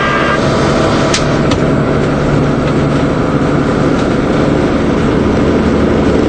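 DAF 75 lorry's diesel engine running steadily under a wash of road noise, with a single sharp click about a second in.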